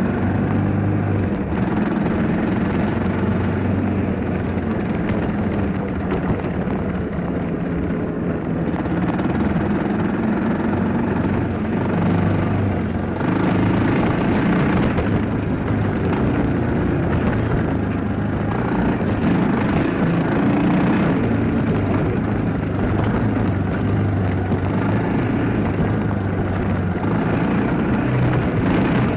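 Dirt bike engine running under way, its revs rising and falling, with a noisier surge near the middle.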